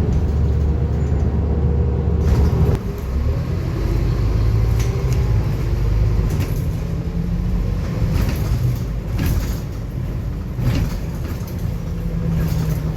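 Scania N230UD double-decker bus's diesel engine running under way, heard from inside the bus, with a low drone whose note drops sharply about two and a half seconds in. Short clicks and rattles come every second or two.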